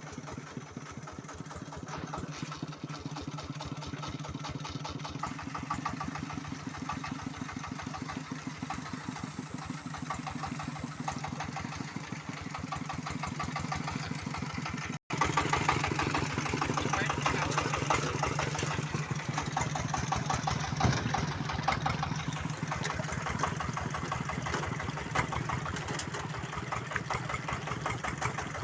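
Single-cylinder diesel engine of a công nông two-axle-drive farm truck chugging steadily with a fast, even firing rhythm. It cuts out for an instant about halfway through and is louder after.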